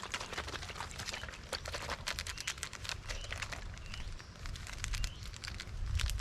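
Plastic MRE beverage pouch crinkling and crackling as it is handled and shaken to mix the drink powder, in a run of quick irregular ticks.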